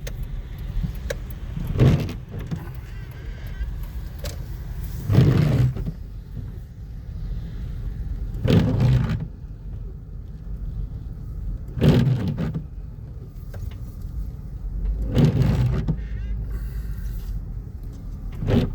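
Car cabin road noise while driving: a steady low rumble, with a short louder sound repeating about every three and a half seconds.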